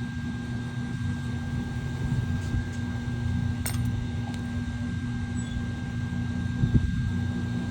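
Steady mechanical hum with a low drone and a thin high whine, like a fan or small electric motor running, with a sharp click about halfway through and a small thump near the end.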